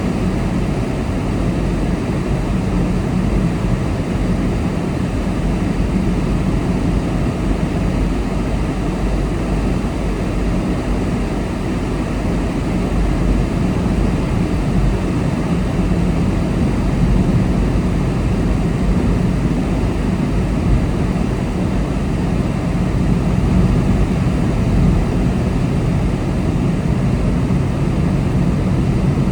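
Car driving at speed: steady road and tyre noise with engine hum, an even low noise that barely changes.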